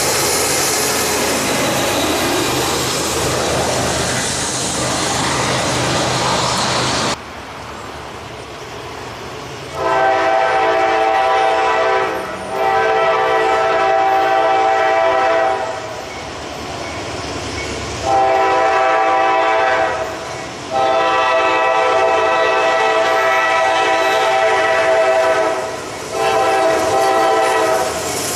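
A train rolling past for about seven seconds, cut off suddenly. Then a locomotive's multi-note air horn blows five blasts, the fourth the longest.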